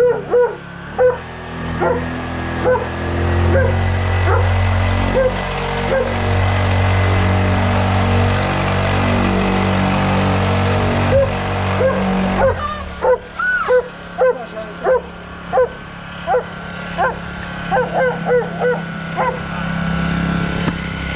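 A dog barking repeatedly in short barks, thickest in the first couple of seconds and again in the second half. An engine hums steadily underneath and changes note about twelve seconds in.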